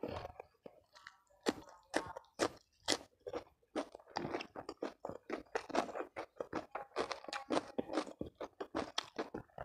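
A person chewing food, close to the microphone: irregular crisp crunches, sparse at first and then several a second.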